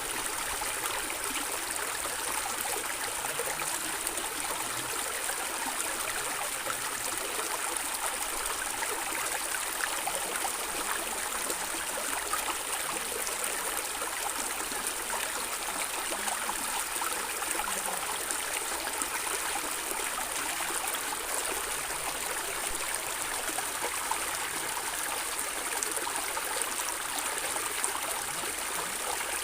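Stream of water running and gurgling steadily over rocks, an even rushing hiss with small splashes.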